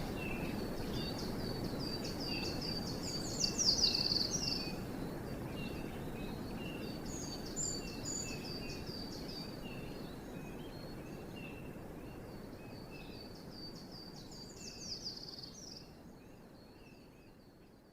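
Small woodland birds singing over a steady hiss of background noise. A high, thin song made of rapid repeated notes comes twice, building to a dense flourish, with softer calls from other birds in between. The recording fades out near the end.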